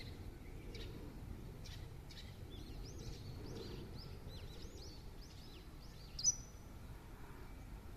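Small birds calling: a few scattered short chirps, then a quick run of arched, rising-and-falling whistled notes, and one sharp, louder chirp near the end, over a steady low outdoor rumble.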